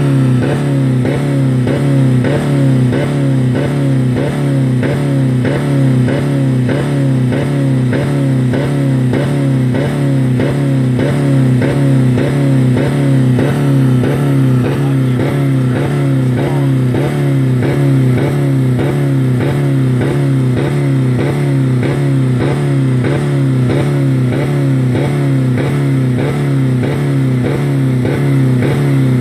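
2000 Dodge Neon's 2.0-litre four-cylinder engine held at full throttle against the rev limiter, the revs bouncing as the limiter cuts in about twice a second. The engine is running with no oil or coolant left in it.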